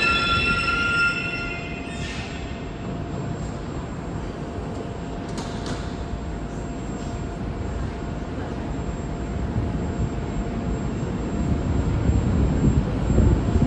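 Moscow metro train at the station platform: a high squeal of several steady tones fades out about a second in, then steady rumbling with a few clicks. The low rumble grows louder toward the end as a train moves along the track.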